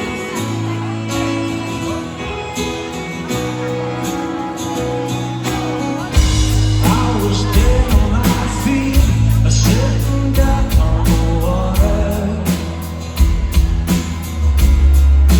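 Band music with a singer: guitar and voice. About six seconds in, drums and bass come in and the music gets louder.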